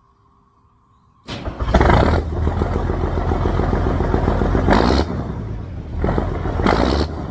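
A motor vehicle's engine running loudly, starting suddenly about a second in with a deep rumble, and getting louder and harsher three times.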